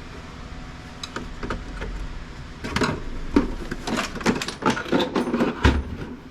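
Irregular clicks, clacks and knocks of hard plastic printer parts being handled and pulled apart during disassembly, sparse at first and busiest in the second half, with one heavier thump near the end.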